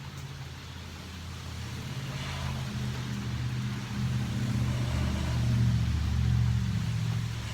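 Motor vehicle driving past on a rain-wet road. Its low engine hum and tyre hiss build over several seconds, are loudest about six seconds in, then ease off near the end.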